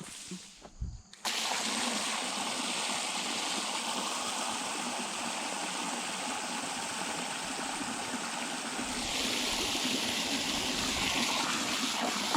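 Water rushing steadily from a hose, turned on abruptly about a second in and cut off near the end.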